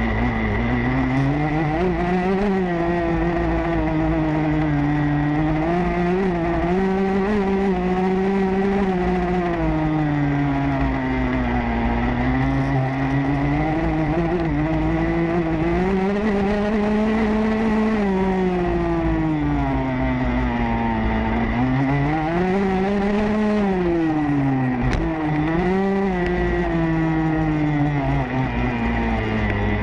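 Motocross bike engine revving up and falling back again and again as the rider accelerates and backs off around the track, with a steady high whine underneath.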